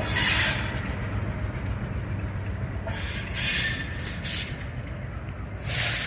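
Diesel locomotive of a freight train running with a steady low rumble, broken by four short bursts of hiss: one at the start, two about three to four and a half seconds in, and one near the end.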